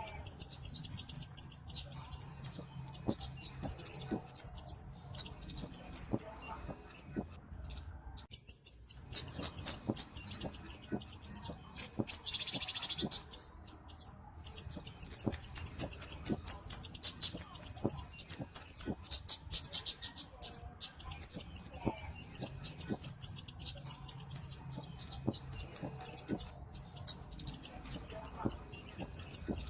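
Flowerpecker (cabe-cabean) song: rapid, high-pitched ticking notes in bursts of a few seconds, with short breaks between them and a brief buzzy hiss about twelve seconds in.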